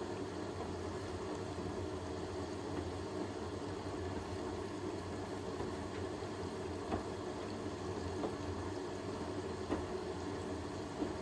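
Hoover H-WASH 500 washing machine running mid-way through a cotton 60 wash cycle: a steady motor hum with a few faint clicks in the second half.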